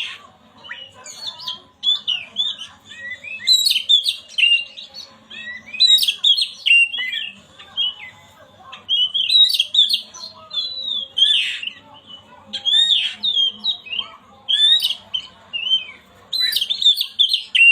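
Oriental magpie-robin (kacer) singing: a rapid, varied stream of whistled and harsh, squawking notes, delivered in bouts about a second long with brief gaps.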